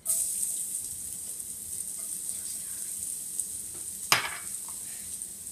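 Garlic sizzling in a hot pot, a steady high hiss, with one sharp clack about four seconds in.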